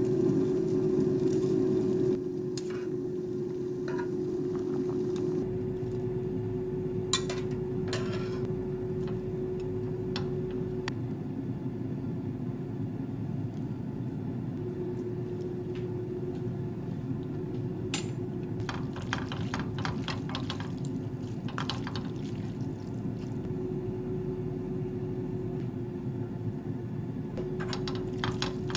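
Kitchen work: dishes and utensils clink now and then over a steady hum, with some liquid sounds.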